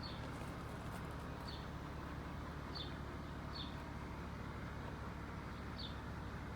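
Hummingbird giving short, high chip calls, each dropping slightly in pitch, about five times at uneven intervals, over a steady low background rumble.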